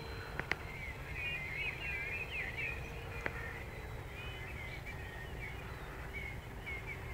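Small birds chirping and twittering, with a faint steady hum from the RC plane's electric motor far overhead that dips slightly in pitch partway through. A low wind rumble lies underneath, and there are a few sharp clicks.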